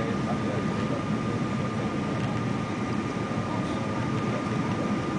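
Steady cabin noise of a Boeing 777-200ER airliner: an even low rush of engines and airflow with a thin, steady whine above it.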